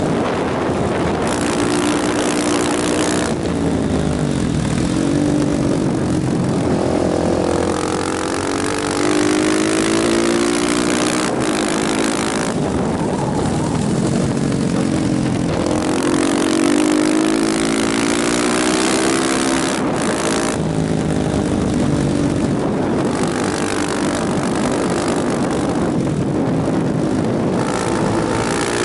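Motorcycle engine under way, its pitch climbing and dropping again and again as the rider accelerates and eases off, with wind rushing over the microphone.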